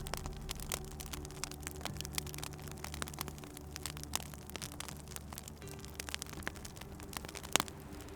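Wood fire crackling with many small irregular pops and one sharper pop about seven and a half seconds in, over a low steady hum.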